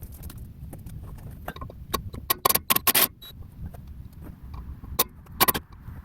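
Hand tools clinking and knocking against the metal of a combine's sprocket assembly as the sprocket and its bolts are worked loose. The sharp, irregular clicks come in a quick cluster around the middle and again about five seconds in.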